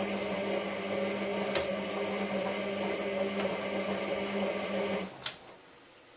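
Hotpoint 9534A washing machine humming steadily during the 60 °C synthetic wash, with a sharp click about one and a half seconds in. The hum stops abruptly about five seconds in, followed by another click, leaving the machine quiet in a pause of the wash action.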